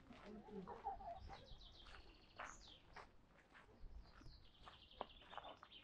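Songbird singing faintly: two runs of rapid high chirps, about a second apart, with a quick sweeping note between them.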